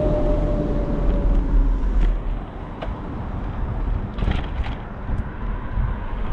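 Road traffic and wind rumble on a bicycle-mounted microphone. A passing vehicle's hum falls slightly in pitch and fades in the first second and a half, and a few short clicks or rattles come about four seconds in.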